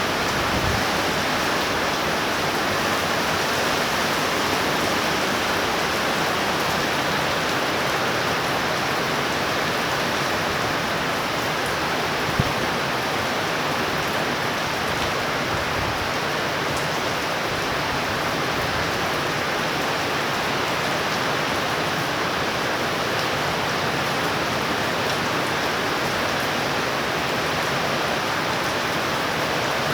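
Heavy rain pouring down steadily, an even hiss of torrential rainfall on surfaces. One brief low thump about twelve seconds in.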